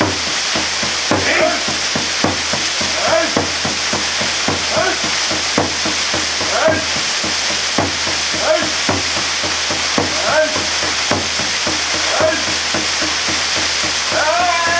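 Steady rush of a waterfall pouring down, with a person's voice calling short pitched syllables about once a second over it.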